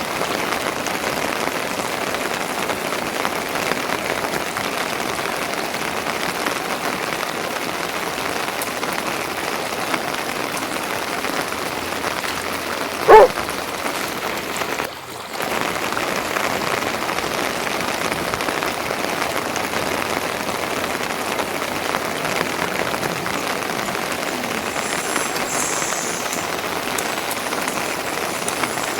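Steady rain falling, an even patter of drops throughout. About midway, a single short, high-pitched sound with a wavering pitch cuts through and is the loudest thing heard. Soon after, the rain sound dips for a moment.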